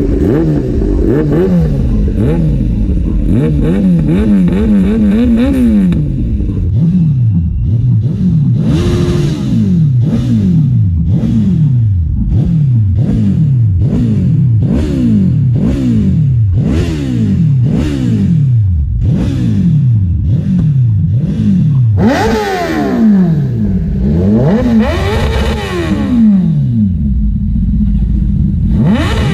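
Inline-four superbike engine revved through its exhaust in quick throttle blips, about one a second. A few longer, higher revs come near the end.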